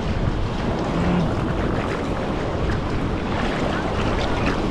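Ocean surf and water washing over shallow rocks, steady and continuous, with wind rumbling on the microphone.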